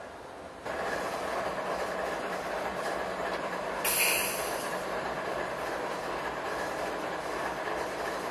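Freight train running: a steady rumble of wheels on rail and locomotives from an approaching CSX freight, starting under a second in, with a brief high hiss about four seconds in.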